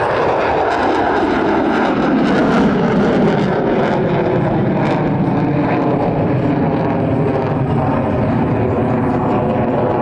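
Loud jet roar from an F-22 Raptor's two F119 turbofan engines as it manoeuvres low overhead, with a fall in pitch about two to three seconds in.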